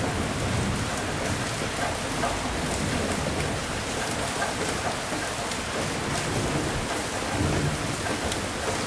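Steady heavy rain falling, with a dense patter of drops and thunder rumbling low underneath, swelling most about three-quarters of the way through.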